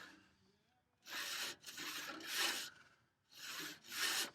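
Hand saw crosscutting a thick timber workbench leg to length: about a second of quiet, then three rasping strokes, a short pause, and two more strokes near the end.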